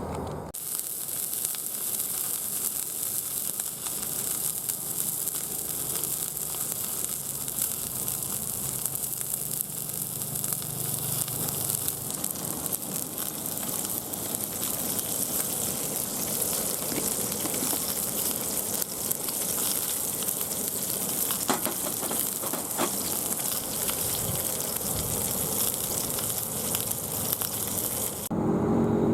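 Steady sizzling and crackling over a Picogrill-style fire pit, with a few sharper pops about two-thirds of the way through.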